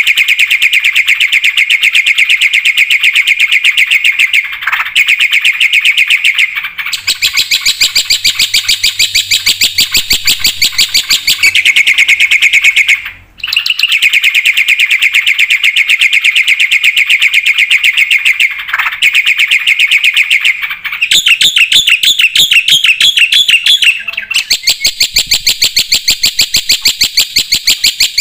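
Black-winged myna (jalak putih) singing continuously and loudly: fast, rapidly repeated shrill chattering notes packed with varied phrases. The runs change pattern every few seconds, with a brief break about 13 seconds in.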